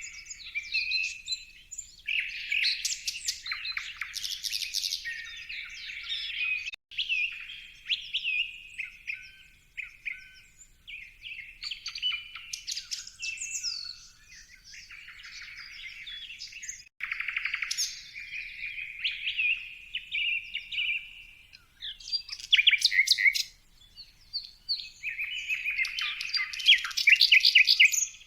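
Birds chirping and singing, calls overlapping almost without pause, with rapid pulsed trills now and then. The sound cuts out for an instant twice.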